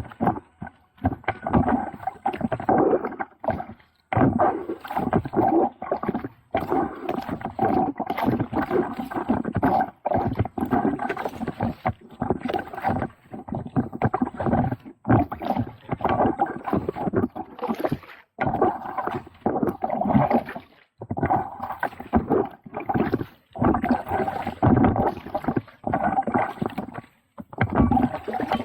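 Water splashing and sloshing around a kayak as it is paddled, in uneven surges with short breaks between them.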